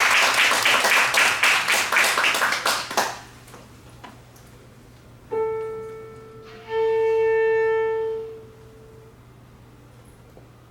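Audience applause dying out about three seconds in. Then a piano sounds a single note and a clarinet holds the same pitch for a couple of seconds, as in tuning to the piano's A before playing.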